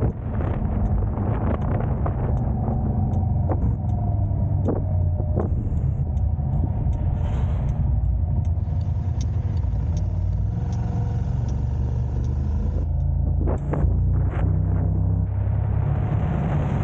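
A car being driven in city traffic: a steady, heavy low rumble of engine and road noise, with scattered faint clicks and knocks over it.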